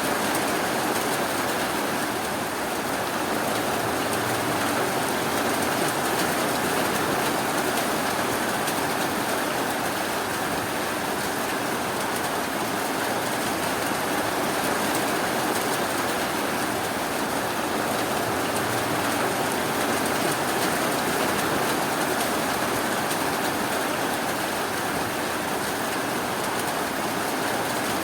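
Steady, even rainfall: a constant hiss of rain with no distinct drops or thunder standing out.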